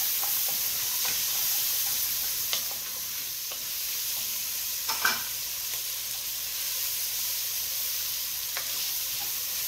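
Chopped garlic, onion, celery and leeks sizzling in hot oil in an enameled Dutch oven, stirred with a wooden spoon, with a few short knocks of the spoon against the pot, the clearest about halfway through.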